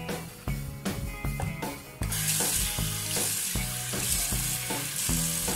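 Water running and splashing into a stainless steel sink while soaked mung beans are rinsed in a bowl. It starts as a steady hiss about two seconds in, over background guitar music.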